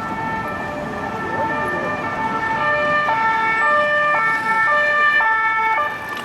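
French two-tone police sirens on unmarked police cars, each switching back and forth between a high and a low note, with more than one siren sounding out of step. The sirens grow louder about a third of the way in, over the rumble of city traffic.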